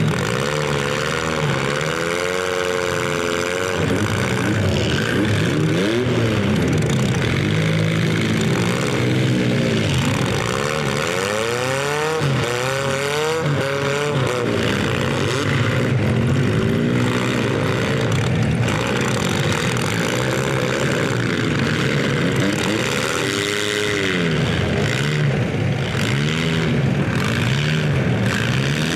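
Several stock compact-car engines revving hard at once, their pitch repeatedly rising and falling as the cars accelerate, back up and ram each other in a demolition derby.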